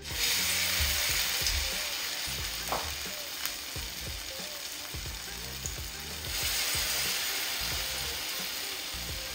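Akara (bean-fritter) batter frying in hot oil: a sizzle that starts suddenly and swells again about six seconds in.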